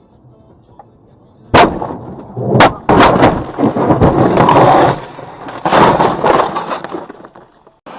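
A vehicle crash picked up by a dashcam: a sudden loud bang about a second and a half in, then several more hard impacts and a few seconds of crunching, scraping noise.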